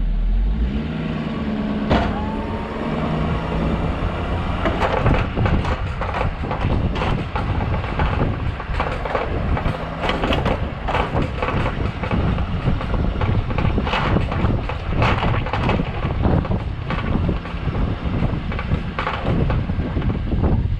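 Snow-plow truck's engine running while its plow blade and wings push and scrape packed snow and ice, with dense, irregular crunching and knocking. A brief rising whine comes about two seconds in.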